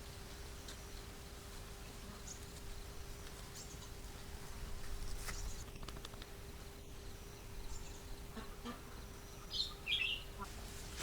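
Birds chirping now and then, with the loudest short calls near the end, over a steady faint hum.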